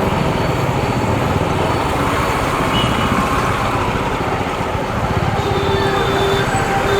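Riding a TVS Apache RTR 200 motorcycle through city traffic: its engine runs steadily under wind and road noise, with other vehicles' engines around it.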